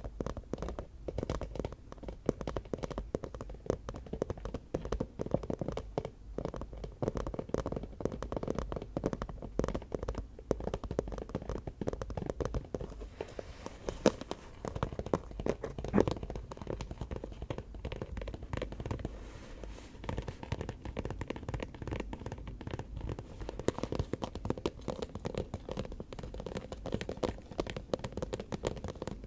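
Fast, continuous finger tapping on an object. About halfway through come two louder taps about two seconds apart, followed soon after by a short pause.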